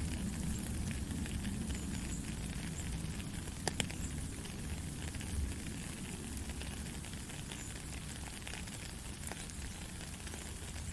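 Heavy rain falling steadily, a dense hiss of countless drops with a low rumble underneath, and two sharp drop clicks about four seconds in.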